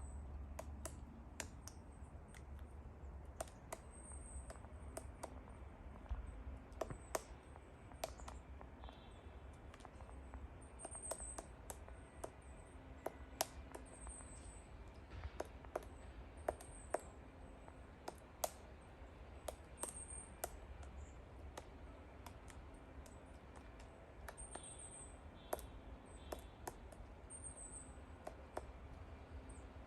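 Woodpecker pecking at wood in single, irregularly spaced taps rather than a drumming roll, with short high chirps from a bird every second or two and a low rumble underneath.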